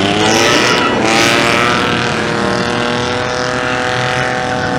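A car engine revved hard and held at high revs: its pitch climbs quickly at the start, then stays nearly steady. Two short bursts of rushing noise come in the first second and a half.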